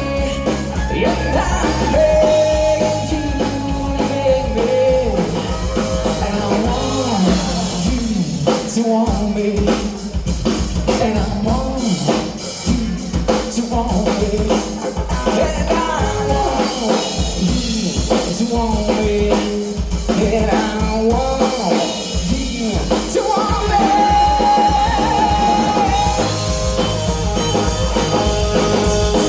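Live rock band playing: drum kit, electric guitar and singing.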